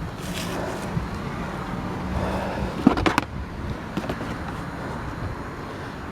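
Vehicle engine idling with a steady low hum, and a few sharp knocks and rattles about three seconds in as junk is moved around.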